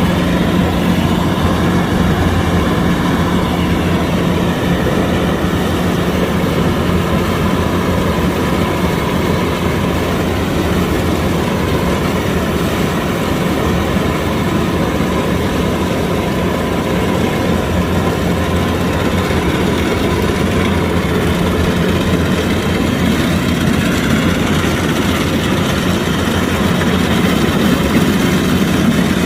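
Kubota DC-105X rice combine harvester running steadily at an even, unchanging level.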